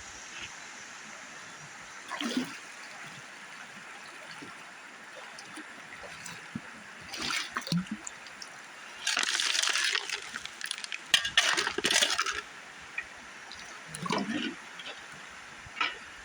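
Shallow river water running steadily, with several bursts of splashing and scraping as gravel and rocks are dug out of the riverbed, the loudest about nine to twelve seconds in.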